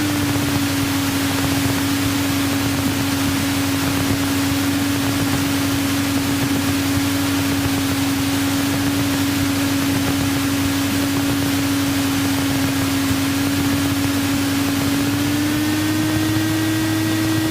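Cessna 172's piston engine and propeller droning steadily at taxi power, heard from inside the cockpit with a hiss over it. The drone's pitch dips just after the start and rises a little near the end as the throttle is moved.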